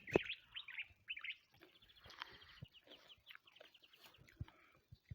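Small birds chirping in a rapid string of short high notes, with a single sharp knock just after the start.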